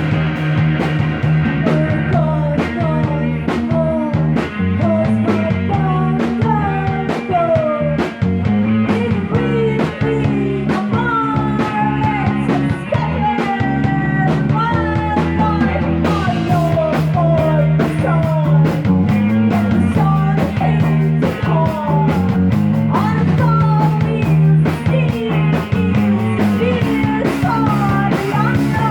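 Psychedelic rock music played by a band. A lead line slides and bends in pitch over a steady bass and drums. The cymbals grow busier from about halfway.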